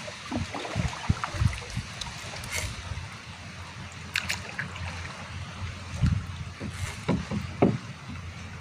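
Water sloshing and knocking with irregular low thumps, the sounds of a small boat on a river, with a few sharp clicks about four seconds in and again near the end.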